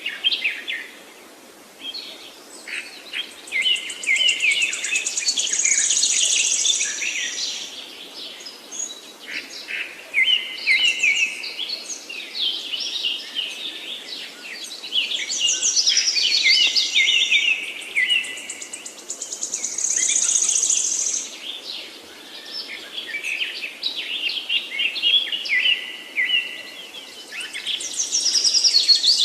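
Several songbirds singing at once in woodland, their phrases overlapping, with a high rapid trill coming back every few seconds.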